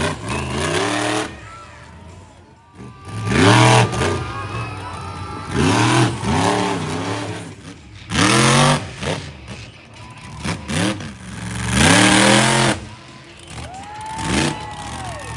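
Monster truck engine being revved hard in repeated throttle blips, about every two to three seconds, each rising and then falling in pitch with a loud exhaust blast.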